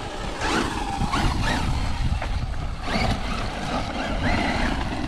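Electric RC truck driving, its motor whining as it revs up and down several times over a low rumble.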